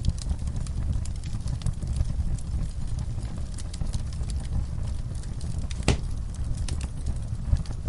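Wood campfire crackling, with scattered snaps and pops over a steady low rumble; one louder pop about six seconds in.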